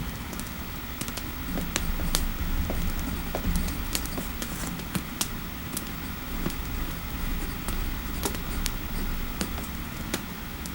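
Computer keyboard typing, as irregular light clicks a few each second, over the low steady rumble and crackle of a fireplace.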